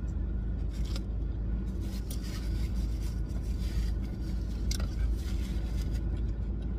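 A mouthful of burger being chewed with the mouth closed, and a paperboard food basket being handled with short scrapes and rustles. Under it runs a steady low hum from the car.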